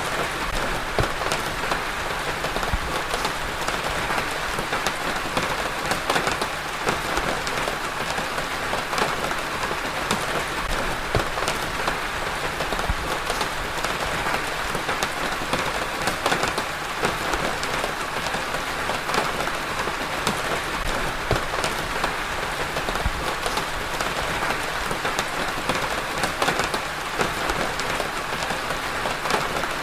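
Steady rain falling on a surface, an even hiss with many individual drops ticking and pattering through it.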